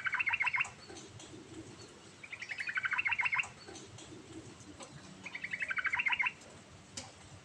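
Yellow-vented bulbul singing: three phrases of rapid chattering notes, each about a second long, getting louder through the phrase, repeated about every two and a half seconds.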